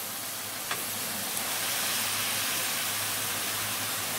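Boiled shredded cabbage sizzling with a steady hiss in a kadai of hot mustard oil and fried spice paste.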